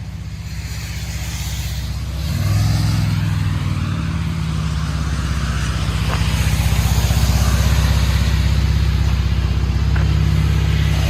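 2013 Chevrolet Camaro's 3.6-litre V6 running through a true dual straight-pipe exhaust with Vibrant bottle resonators. The engine note gets louder about two seconds in, then holds steady and loud.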